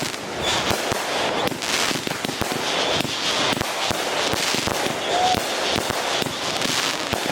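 Consumer fireworks going off in a fast, continuous barrage: dense crackling with many sharp pops and bangs and no break.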